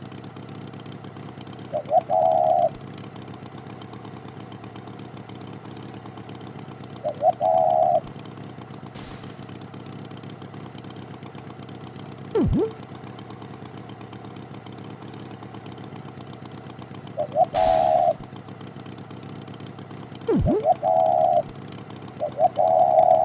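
Cartoon tractor engine idling steadily, with five short warbling sounds and two quick falling swoops laid over it.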